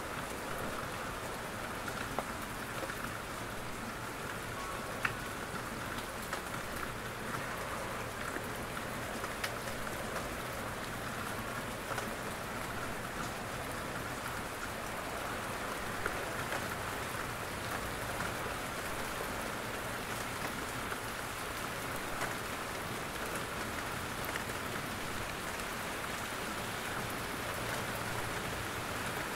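Steady rain falling in a forest, with a constant hiss and scattered individual drops ticking down from the trees.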